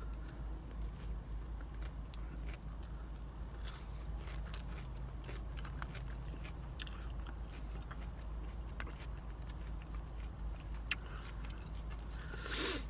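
Close-up chewing of a crouton salad: irregular crisp crunches and small clicks, with a plastic fork scraping the plastic container, over a steady low hum.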